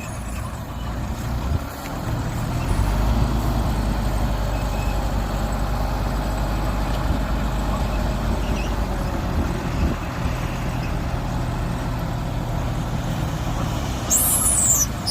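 Heavy earthmoving machinery's diesel engine running steadily, growing louder about two seconds in. Near the end there is a brief high, falling squeal.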